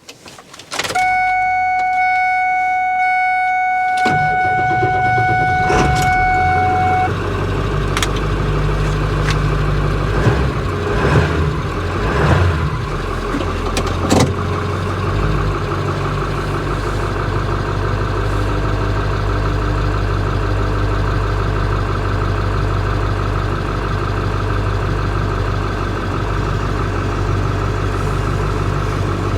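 Ford 7.3 Power Stroke turbo-diesel V8 in a 2000 F350 being started. A steady warning chime sounds from about a second in for several seconds. The engine catches about four seconds in, then settles into a steady diesel idle with a few clicks early on.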